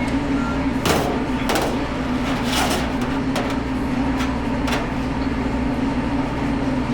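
Rational SCC WE combi oven care pump running: a steady motor hum with several sharp, irregular clicks and knocks, a gravelly rattle that marks the pump as failing and running slow.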